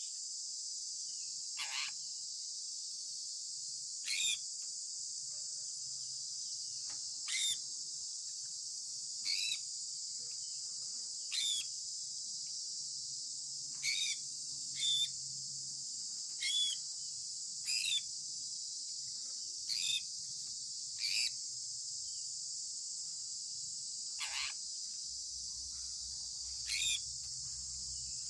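Sun conure parrot giving short, loud chirps about every two seconds, each one sweeping sharply down in pitch, over a steady high hiss like crickets.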